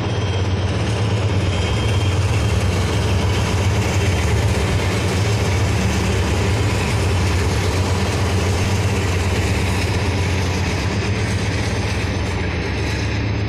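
Norfolk Southern freight train passing close by: the diesel locomotives' engines run with a steady low drone, and covered hopper cars roll past on the rails near the end.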